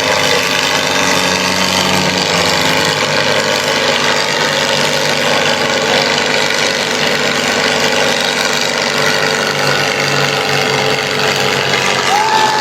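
Tractor diesel engine running steadily and loudly.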